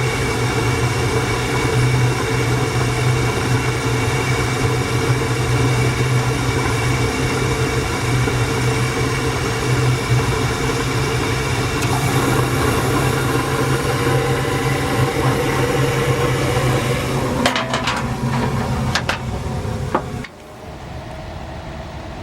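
Rheem RGPR two-stage gas furnace running with a steady low hum and motor tones. Near the end come a few knocks, then the sound drops abruptly to a quieter steady running noise.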